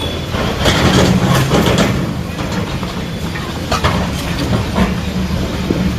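Heavy diesel demolition machinery running, with a steady low engine drone and several sharp clanks and rattles of metal and debris.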